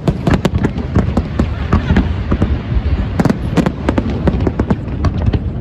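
Aerial fireworks bursting in a rapid, continuous barrage: many sharp bangs and crackles in quick succession over a steady low rumble.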